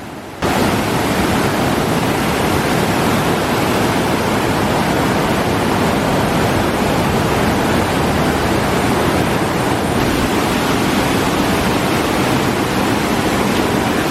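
Swollen monsoon river water rushing through the fully opened shutters of a regulator-cum-bridge, a loud, steady rush that starts abruptly about half a second in.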